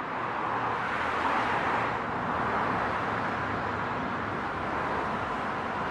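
A steady rushing noise with no clear tones, of the kind made by street-traffic ambience.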